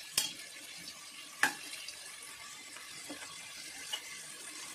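Potato pieces sizzling steadily in hot oil in an aluminium pressure cooker, with a slotted metal spoon knocking against the pot twice, the louder knock about a second and a half in.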